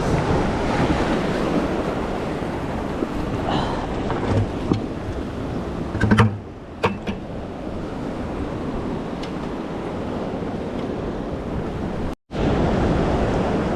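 Ocean surf washing steadily with wind buffeting the microphone. A few sharp clicks come about halfway through, and there is a brief gap in the sound near the end.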